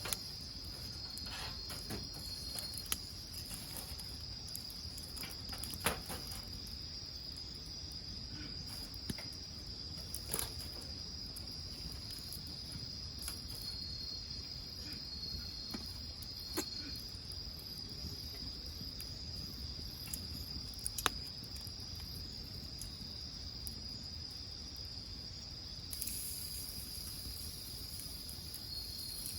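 Crickets trilling steadily in a high pitch, with a few sharp pops and crackles from a wood fire burning.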